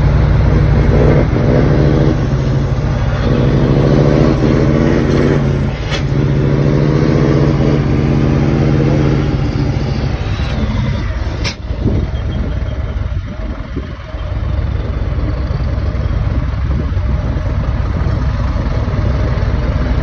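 Scania truck's diesel engine running through an exhaust diffuser, its pitch rising and falling a little as it is revved for about the first ten seconds. A sharp click comes about eleven and a half seconds in, and after it a lower, rougher engine rumble continues.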